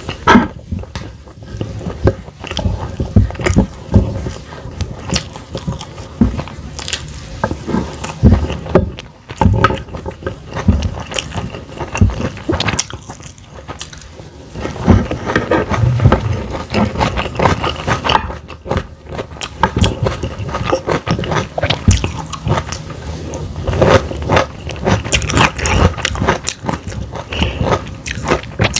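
Close-miked chewing and crunching of cooked vegetables and fried egg, a steady run of irregular wet bites and crackly chews.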